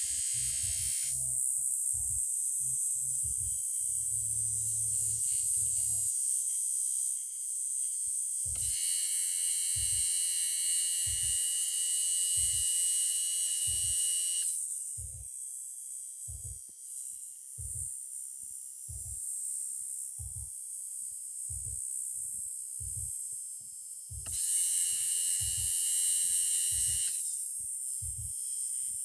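Lada Niva Urban heater blower motor running after repair, a steady whirring rush of air that steps up and down in strength several times, around a third and again about five-sixths of the way in. A regular low thump sounds a little more than once a second throughout.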